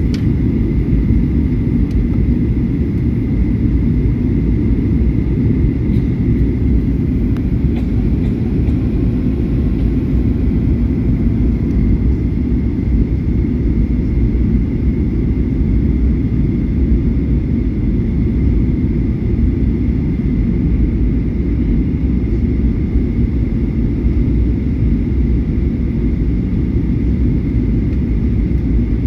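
Steady engine and airflow roar of a Boeing 737-800 in flight, heard inside the cabin, with a faint steady whine above the low rumble and no change in level.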